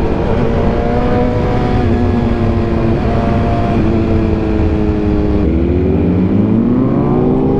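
Superbike engine on the move, its pitch sinking slowly as the bike slows, then rising again about five and a half seconds in as the rider gets back on the throttle, with heavy wind rush on the microphone.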